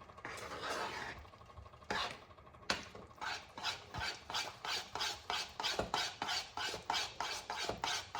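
A cooking utensil stirring a thick cheese sauce and scraping around a pot. The strokes come quickly and evenly, about three a second, from a few seconds in.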